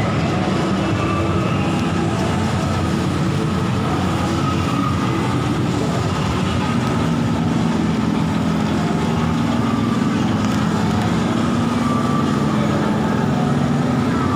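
A mall airplane ride running: a steady mechanical hum and rumble, with a low tone that steps up slightly in pitch about halfway through.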